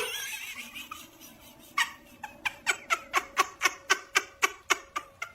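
An animal making a rapid run of short, evenly spaced calls, about five a second, after a brief wavering cry at the start.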